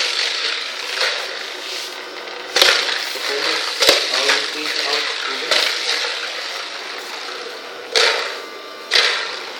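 Battery-powered toy football running: a steady whirring motor that surges loudly several times, with a sharp knock a few seconds in as it moves about.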